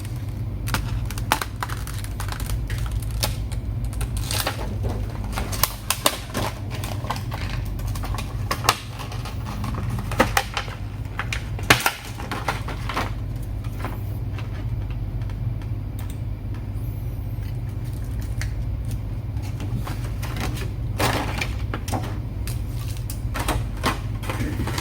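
Irregular small clicks and taps of a laptop hard drive and its plastic-and-metal HDD caddy being handled and fitted together, over a steady low hum.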